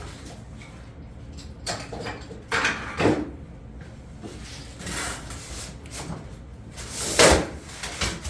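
Plastic parts and packaging being handled: several short scraping knocks, spaced a second or two apart, the loudest near the end.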